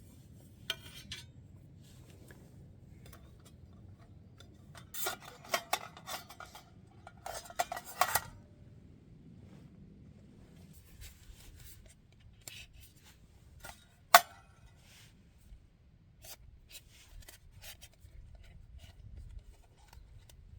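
Objects being handled by hand: scattered clinks, scrapes and rubbing, in two busy clusters about five and seven seconds in, with one sharp knock near fourteen seconds and lighter ticks after it.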